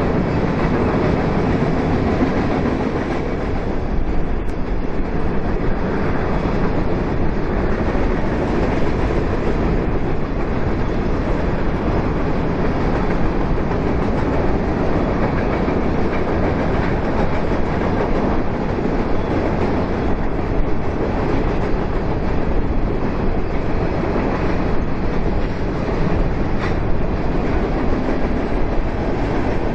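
Freight train cars of an empty grain train rolling past, with a steady rumble and clatter of wheels on rail.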